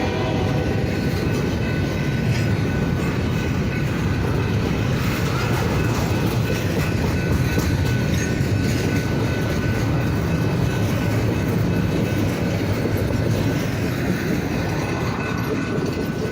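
Freight train cars rolling past at close range, wheels clacking over the rails with a steady rumble and faint high wheel squeal.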